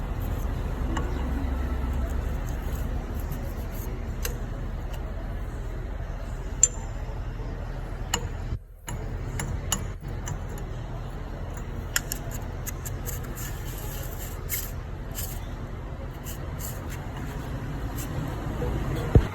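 A steady low machine hum with scattered sharp metallic clicks and clinks, which briefly cuts out a little before halfway.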